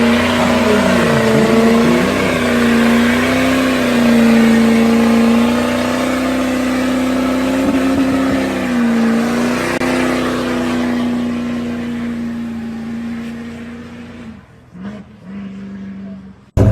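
A lifted pickup truck's engine through a loud straight-pipe exhaust, driving at a steady pitch. The note dips briefly about a second in and again near nine seconds, then fades as the truck pulls away and drops off near the end.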